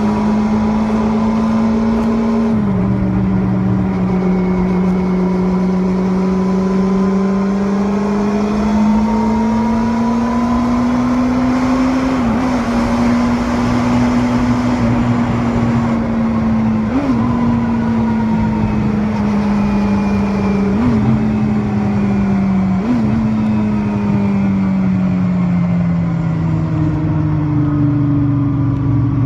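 Water-cooled four-cylinder 250 cc engine of a first-generation Kawasaki Balius running at fairly high, steady revs. The note dips a little early on, climbs slowly to a peak near the middle, then eases off toward the end, with four brief blips of the throttle along the way.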